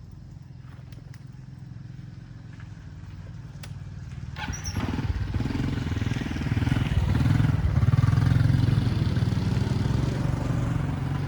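A motor vehicle engine running, growing much louder from about four and a half seconds in and easing off a little near the end.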